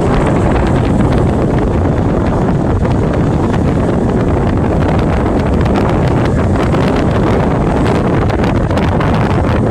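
Loud, steady wind buffeting the microphone while moving along a road, with a low rumble of travel underneath.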